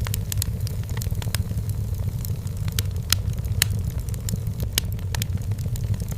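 Wood fire crackling in a fireplace: frequent sharp pops and snaps, a few louder ones about three seconds in, over a steady low rumble of the burning fire.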